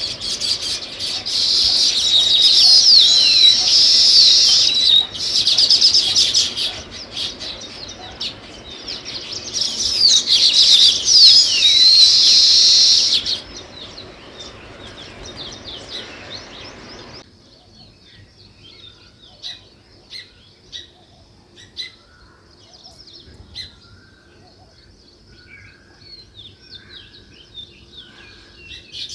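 Flock of sparrows chirping, many birds at once in two loud spells, then after a sudden drop in the background only scattered single chirps for the last third.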